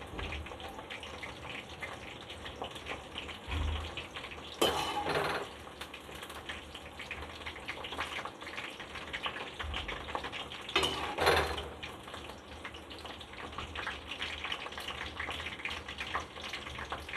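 Okra frying in hot oil in a kadai, a steady crackling sizzle, while the fried okra is lifted out with a metal spoon that scrapes and clatters against the pan, loudest twice: about five seconds in and again about eleven seconds in.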